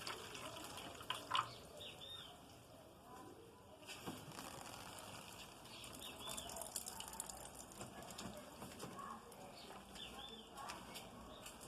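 Faint splashing and trickling of water as garden plants are watered. A small bird chirps in short arched pairs about a second in, midway and near the end.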